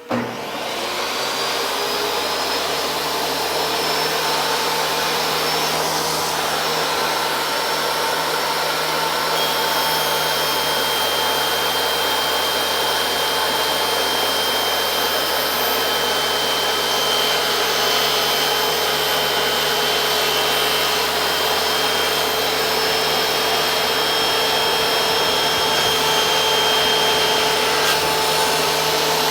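Shop vacuum switching on with a brief surge, then running steadily with a constant whine. About ten seconds in a thin high whine joins it and stops near the end.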